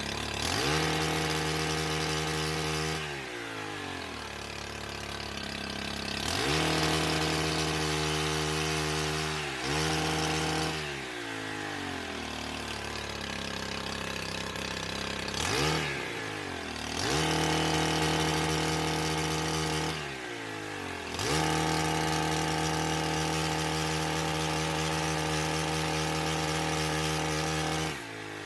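Gas pole saw's two-stroke engine revving up to full throttle for a few seconds at a time and falling back to idle in between, several times over, as limbs are cut.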